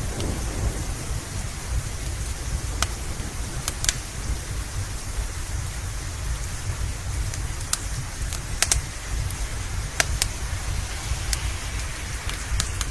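Steady rain with a low rumble underneath, and sharp pops from a crackling wood fire every second or so.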